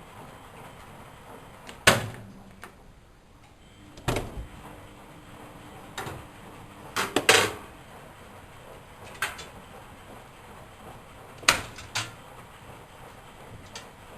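A Miele Novotronic W120 washing machine being handled: a series of sharp knocks and clicks, some in quick pairs, over a quiet background.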